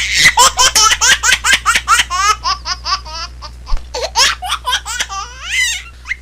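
A baby laughing hard: a rapid run of high-pitched laughs, about three or four a second, ending in a rising squeal near the end.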